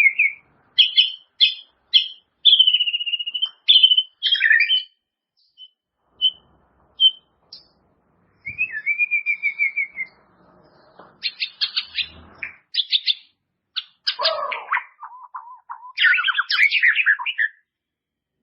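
White-rumped shama (murai batu) singing in varied phrases with short pauses between them. The song has clear gliding whistles, a held whistle, runs of fast repeated notes and rapid tumbling trills, and it is loudest in the last couple of seconds.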